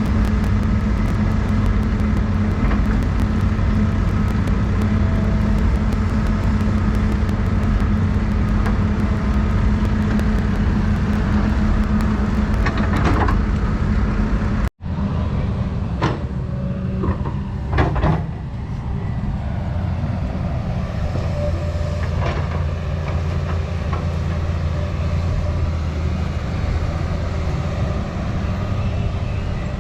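Doosan 350 excavator's diesel engine running steadily under load. It cuts out abruptly about halfway through, then carries on at a lower pitch with a few clanks and knocks.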